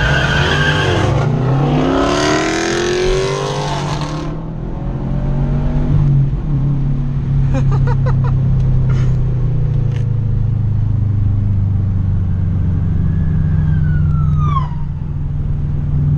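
Subaru Impreza's flat-four engine revving hard under a launch, its pitch climbing steeply for the first few seconds, then settling into a steady drone while cruising. Near the end a brief falling wail sounds.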